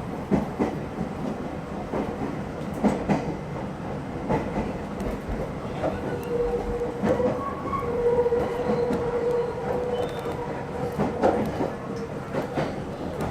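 Meitetsu electric local train running, heard from inside its front car: wheels clacking over rail joints in quick knocks over a steady rumble. A steady tone holds for a few seconds in the middle.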